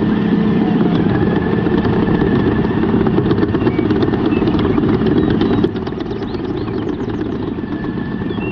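A small motor running steadily with a fast, rough chatter. It drops in level suddenly with a click about five and a half seconds in.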